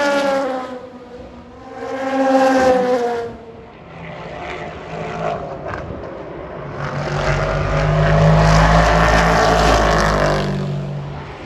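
Race cars passing at speed, one after another: an engine note falling in pitch as one goes by at the start, another about two seconds in, then a longer, louder passing with a deep rumble from about seven to ten seconds in.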